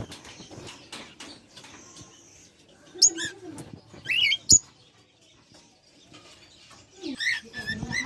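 Parrots giving shrill, gliding calls in three short bouts, about three seconds in, just past four seconds and near the end, with faint rustling and clicks between.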